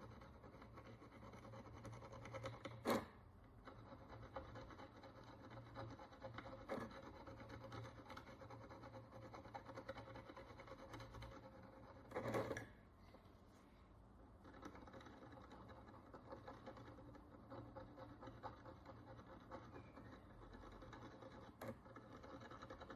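Faint, continuous fine scratching of a hand tool scraping encrusted dirt off a Roman bronze coin, broken by a few sharp clicks of the tool on the coin.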